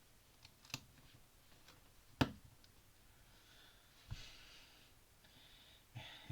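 A few sharp plastic clicks of LEGO pieces being handled and pressed together, the loudest about two seconds in, with a dull knock about four seconds in.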